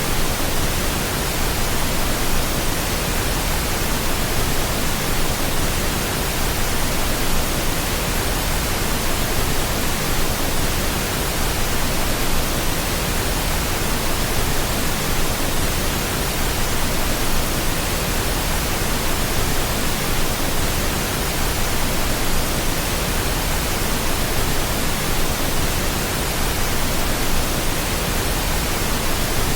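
Steady pink noise: an even, unchanging hiss spread across the whole range from low to high, played as a sleep sound.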